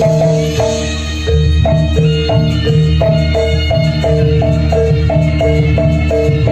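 Gamelan music for a jaranan dance: mallet-struck metal keys play a quick repeating pattern alternating between two notes, over a steady low drone.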